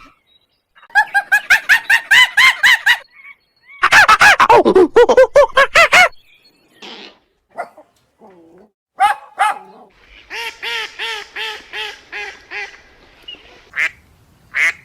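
Waterfowl calling: several runs of quick, repeated short calls at about five a second, separated by pauses, the loudest run about four seconds in.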